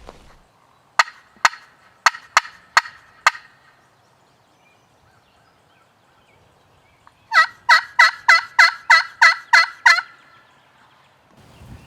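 Turkey calling on a hunter's call. First come six short, sharp clucks or cutts. Then, after a pause, a run of about nine yelps at roughly three a second, imitating a hen turkey to draw in toms.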